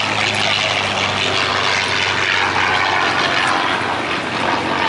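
Propeller airplane's piston engines running loudly, a steady low engine note under heavy rushing propeller noise.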